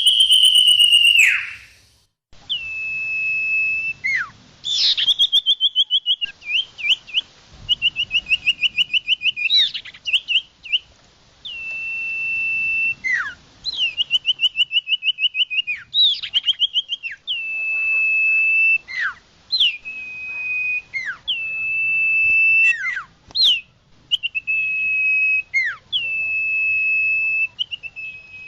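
Common iora (sirtu/cipoh) song played as a bird lure: long, steady whistles, each ending in a sharp downward slur, repeated over and over and alternating with fast rattling trills.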